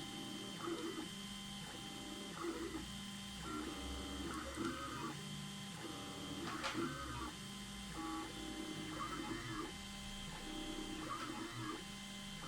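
Anet A8 3D printer converted into a pen plotter, its stepper motors whining in short moves that stop and start and change pitch as the axes trace the drawing. A single sharp click comes about halfway through.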